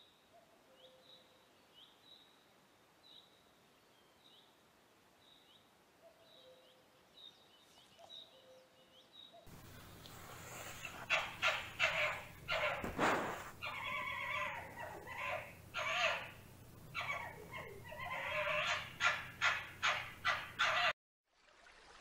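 Fennec fox calling, a long run of short squeaky yips and whines in quick clusters that starts suddenly about halfway through and stops abruptly near the end. Before it, faint bird chirps repeat about once a second.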